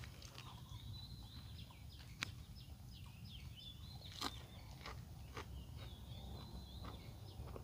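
Small birds chirping in many quick, short calls, with a few sharp clicks of chewing and lip-smacking over a low steady rumble.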